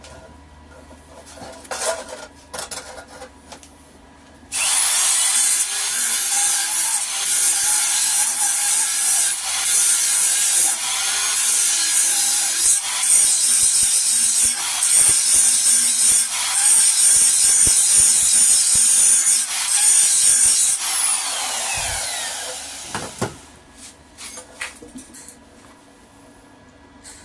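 Electric grinder switched on about four seconds in, grinding metal steadily for some sixteen seconds, then switched off and winding down with a falling whine. A few light knocks come before it starts.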